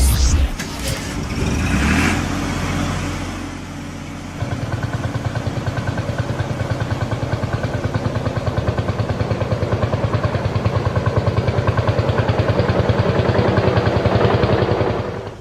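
Animated-cartoon vehicle sound effects: a few short whooshing effects, then from about four seconds in an engine running with a fast, even pulsing beat that grows a little louder and stops near the end.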